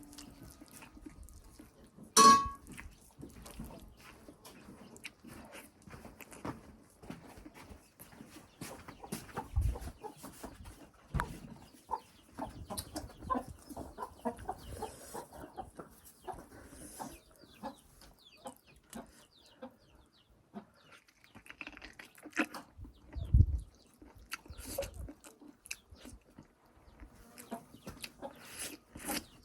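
Close-up eating sounds: repeated chewing and lip-smacking on buffalo-foot meat and rice, with a metal spoon striking the plate with a short ringing clink about two seconds in and a few heavier bites or knocks later.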